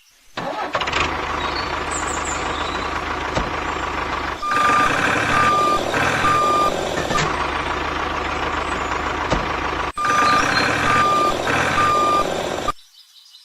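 Truck engine running steadily while a reversing alarm sounds three short beeps, then another three beeps a few seconds later; the engine sound cuts off shortly before the end.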